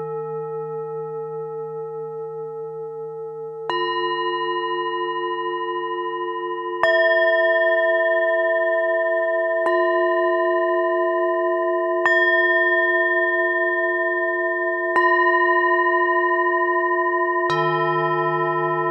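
Tibetan singing bowls of several pitches struck one after another, six strikes about every two to three seconds. Each strike rings on long and overlaps the others, with a slow wavering in the tone; a deep bowl rung before is fading at the start and is struck again near the end.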